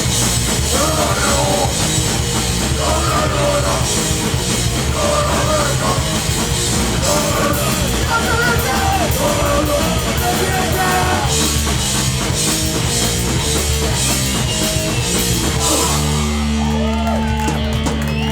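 Live hardcore punk band playing loud: distorted guitars, bass, drums with crashing cymbals, and shouted vocals. About sixteen seconds in, the drums and cymbals drop out and a held chord rings on as the song ends.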